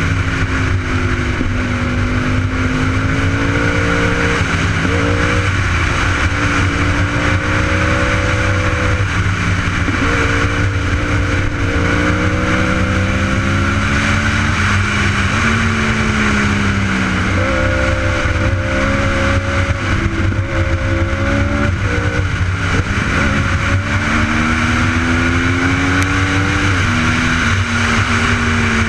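Superbike engine running under way, its pitch climbing slowly and dropping sharply at each gear change, several times over. Steady wind rush runs underneath.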